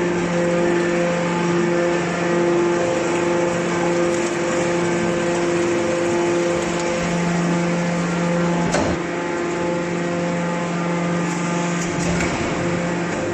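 Hydraulic power unit of a small aluminum can baler running with a steady hum, with one sharp click about nine seconds in.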